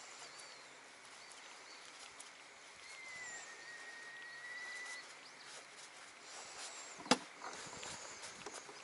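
Outdoor ambience with birds calling: one long whistled note of about two seconds about three seconds in, and faint high chirps. A single sharp click about seven seconds in.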